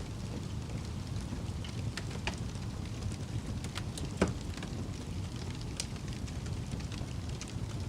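Fire burning with a steady low rumble and scattered crackles and pops, one louder crack about four seconds in.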